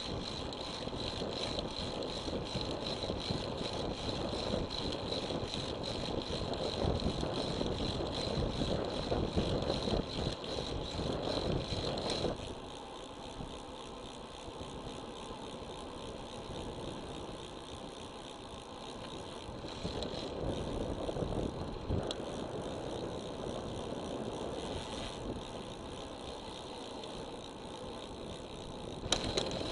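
Road bicycle riding along, heard through an action camera's microphone: a steady rush of wind and tyre noise with some rattling. The noise drops noticeably about twelve seconds in and picks up again near the end.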